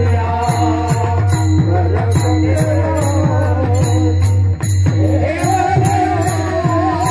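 Marathi devotional bhajan music: a sung melodic line with wavering pitch, over small hand cymbals jingling in a steady rhythm of about three strikes a second and a drum underneath. It dips briefly about halfway through.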